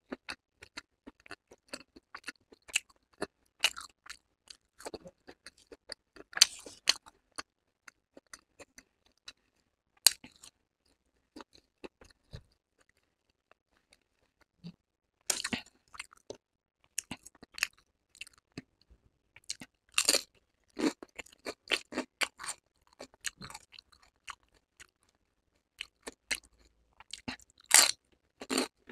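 A person chewing food close to the microphone: irregular quick, sharp mouth clicks and crackles, with a pause of about three seconds midway and louder bites later on.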